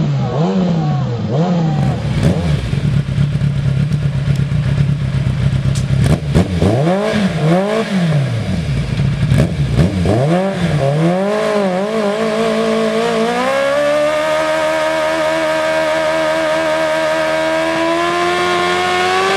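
Vehicle engine through a loud aftermarket exhaust being revved: short blips of the throttle, then brought up to high revs and held there, slowly climbing higher.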